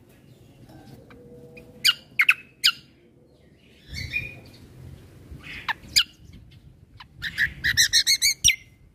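Kecial kombo (cucak kombo) singing loud, sharp chirps, three close together about two seconds in, then a few scattered notes. Near the end comes a rapid run of about eight repeated notes.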